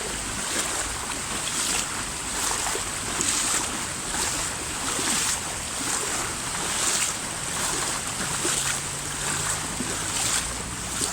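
Fast-flowing floodwater rushing and splashing around a person's legs as they wade through it, with splashes about once a second over a steady rush.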